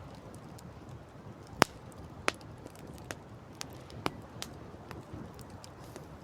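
Wood campfire crackling, with sharp irregular pops, the loudest about one and a half seconds in, over a steady low rush of noise.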